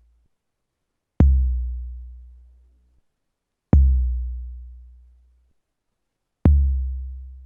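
An SP1200 sampler playing a deep bass drum sample three times, each hit a sharp click followed by a long low boom that fades out over about two seconds.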